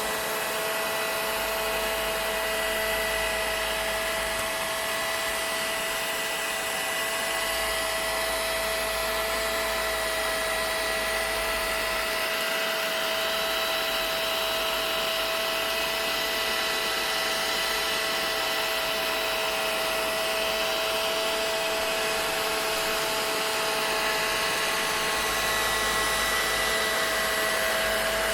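Vacuum cleaner running continuously: an even rushing noise with a steady whine that holds one pitch.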